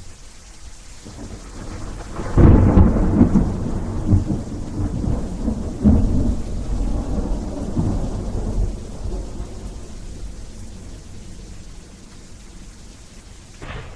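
Thunder: a clap breaks about two and a half seconds in, then rolls and rumbles unevenly for several seconds before fading out.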